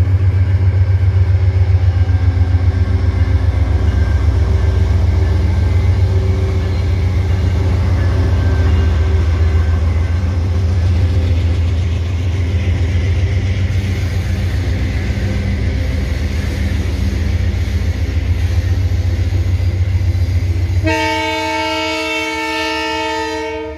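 Diesel-electric freight locomotives working past with a deep, pulsing engine rumble as the train's wagons roll by. About 21 seconds in the rumble drops away and a multi-tone train horn sounds steadily to the end.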